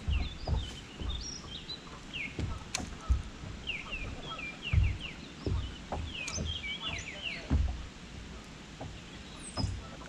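Songbirds singing, quick runs of short high chirps and slurred notes that come and go throughout. Underneath are low thumps and rumbles, the loudest of them about three seconds, five seconds and seven and a half seconds in.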